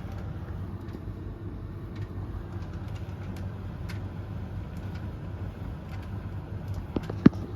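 Three tumble dryers running together: a steady motor and fan hum with the rumble of the turning drums. Two sharp knocks close together near the end, the second the loudest, like something in the load striking a drum.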